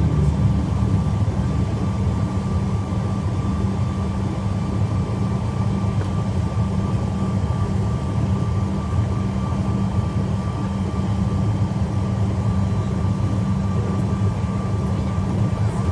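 Jet airliner engines running steadily, heard from inside the passenger cabin: a constant low drone with a thin steady whine above it.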